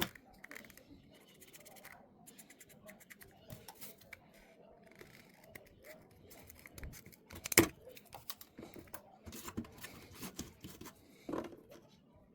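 Irregular clicking, scraping and snipping sounds of hands working with tools and material, with one sharp knock about seven and a half seconds in.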